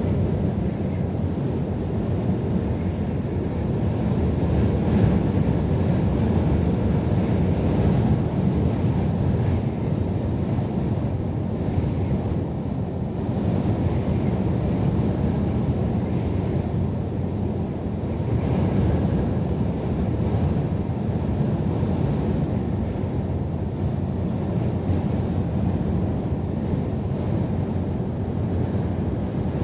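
A Scania R500 truck driving at a steady pace: an even, low rush of engine, tyre and wind noise with no gear changes or sudden events.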